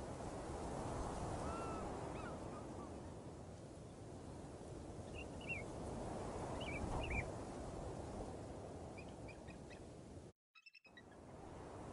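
Outdoor ambience: a steady low rushing noise with scattered short bird chirps. The sound drops out for about half a second near the end.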